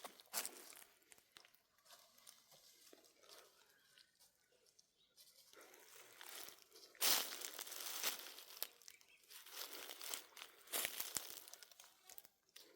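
Irregular crunching and crinkling noises, like material being handled or stepped on, loudest about seven seconds in and again near the end.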